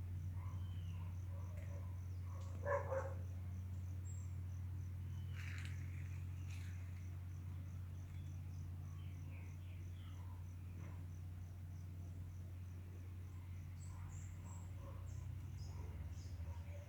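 Birds chirping in scattered short calls, with a louder call about three seconds in. Behind them runs a steady, fast, high-pitched pulsing chirp and a constant low hum.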